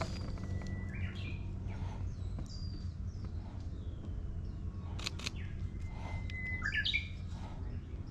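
Songbirds singing in woodland: twice, a long held whistle breaks into a quick run of higher notes, with short chirps between. Two sharp clicks sound about five seconds in, over a steady low hum.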